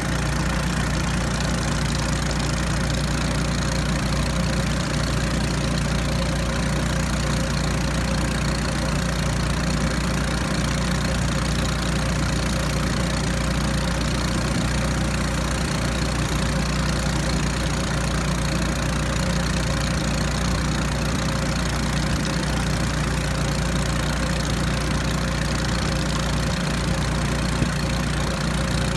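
Raft's small outboard motor running at a steady speed, with an even hiss of water or wind over it.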